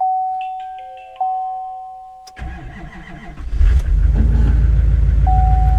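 Pickup dashboard chime dinging, then the Chevrolet Silverado's diesel engine cranking on the starter in bitter cold on number 1 diesel. It catches about a second later and runs loud and steady, with the chime dinging again near the end.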